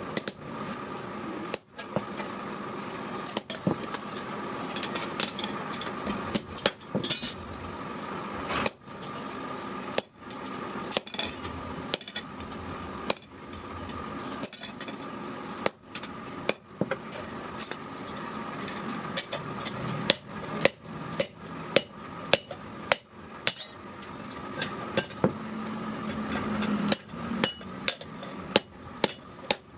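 Blacksmith's hammer striking metal, blow after blow, spaced irregularly at first and then coming about two a second in the second half, over a steady background hum.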